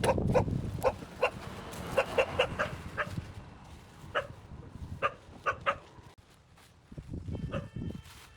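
A dog barking in short, irregular barks, a dozen or so in a row, some in quick clusters, over a steady low rumble.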